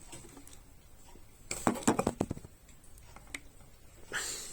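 A quick cluster of light clicks and knocks from hard objects being handled, about a second and a half in, then a single click later.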